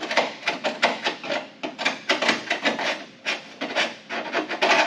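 Quick rubbing and scrubbing strokes worked by hand, about four to five a second and uneven in strength.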